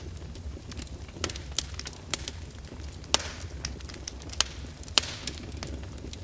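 Wood fire burning in an open fireplace, with a steady low rumble and irregular sharp crackles and pops; the loudest pops come about a second in, about three seconds in and about five seconds in.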